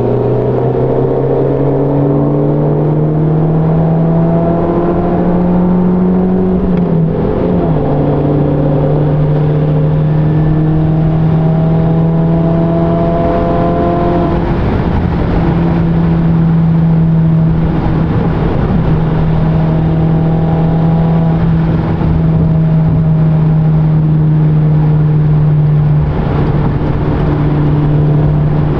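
Volkswagen GTI's turbocharged four-cylinder engine droning under way, with road noise. The engine note climbs slowly, drops sharply about seven seconds in like an upshift, then holds steady at cruise.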